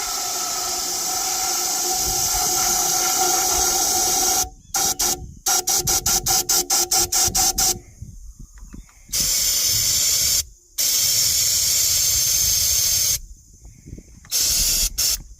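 Aerosol can of starting fluid spraying into the air filter of a 6.9 IDI diesel: a long hiss with a steady whistle tone, then a quick string of short spurts, then a few more long sprays.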